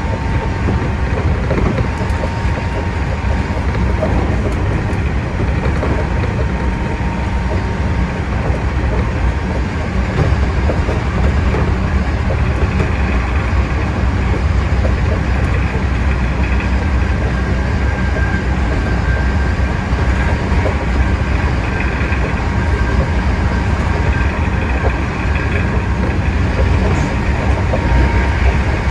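Hankyu 8000 series electric train running at speed, a steady, loud rumble of wheels on rail with a faint whine that comes and goes.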